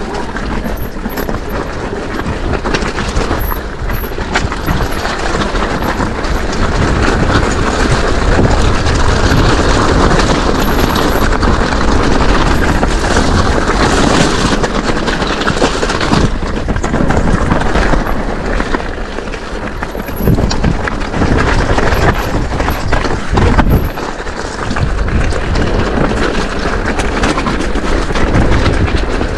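Wind noise and rumble of an e-bike ridden over a rough track, heard through an action camera, with frequent knocks and rattles from the bike.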